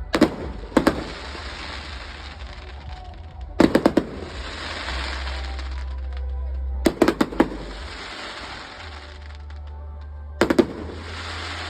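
Fireworks going off in five clusters of sharp bangs, each cluster followed by a few seconds of fizzing, crackling hiss from the bursting shells. A steady low rumble lies underneath throughout.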